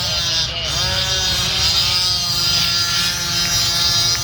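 Gas-powered RC car engines (small two-stroke) revving up and down as the cars race, several engines at once with their pitch falling and climbing again.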